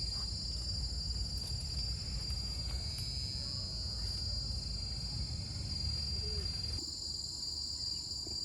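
A steady, high-pitched chorus of insects buzzing and trilling in a tropical forest, with a low rumble underneath that stops about seven seconds in.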